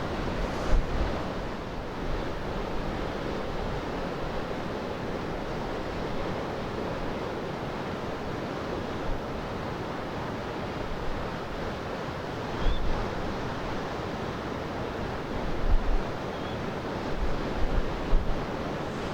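Surf breaking steadily with wind blowing, and gusts buffeting the microphone now and then, more often in the second half.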